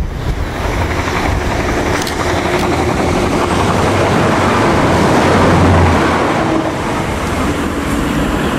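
A diesel multiple-unit passenger train passing close by below. It grows louder as it approaches, with a low engine hum loudest about two-thirds of the way through, then fades as the train moves away.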